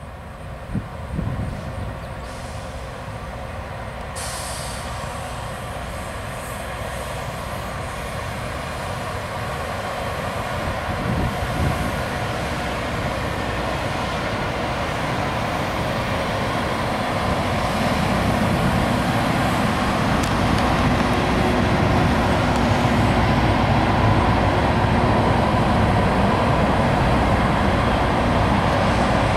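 Loram rail grinder train rolling past, a steady mechanical din of wheels on rail and running machinery that grows louder as the grinding cars come by.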